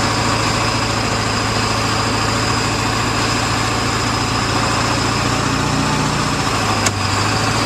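A vehicle engine running steadily, its low note dropping slightly near the end, with a single sharp click about seven seconds in.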